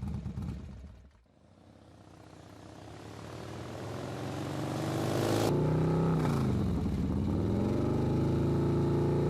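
Motor vehicle engine sound effect growing steadily louder, then running at a steady level, its pitch dipping and coming back up a little past the middle.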